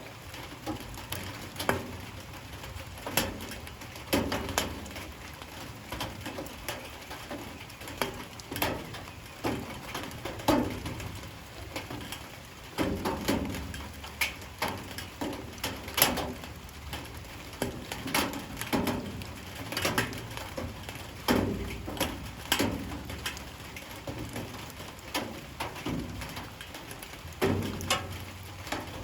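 Light rain: drops falling unevenly onto hard surfaces, tapping at irregular intervals over a steady low wash.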